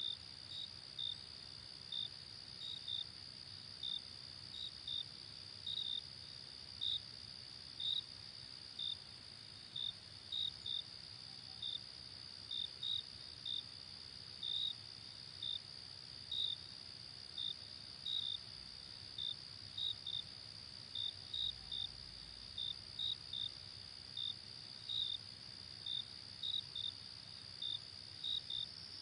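Crickets chirping: short high chirps about twice a second over a steady, higher insect trill.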